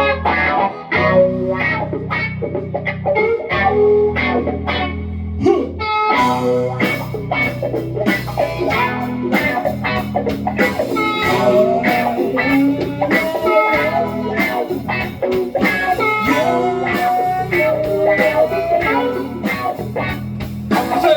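Blues-rock band playing an instrumental intro: electric guitar and bass guitar, with drums and the rest of the band coming in about six seconds in.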